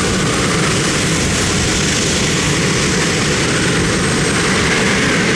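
Competition pulling tractor's engine running under heavy load, a loud, steady, unbroken sound.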